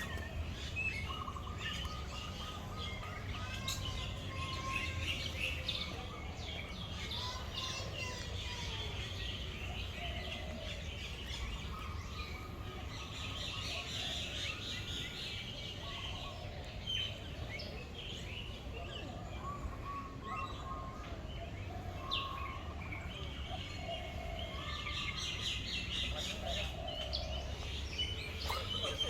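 Many birds chirping and calling together, a dense mix of short, quick chirps with some longer whistled notes, over a steady low rumble.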